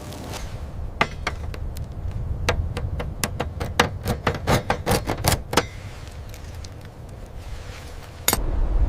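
A quick run of sharp knocks, a dozen or more over about four and a half seconds, then a sudden low rumble with one more sharp strike near the end.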